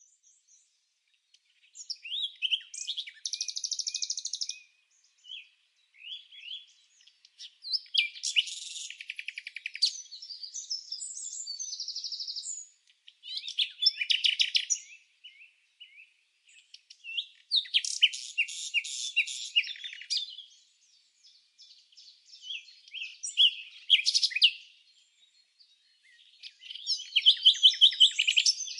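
Small songbirds chirping and singing: quick high-pitched chirps and rapid trills in phrases a few seconds long, with brief pauses between them.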